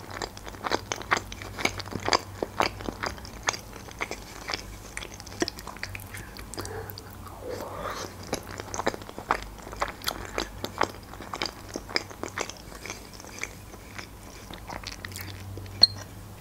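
Close-miked chewing of penne pasta in cream sauce: a quick, irregular run of wet mouth clicks. Near the end a single sharp clink of a fork against the plate.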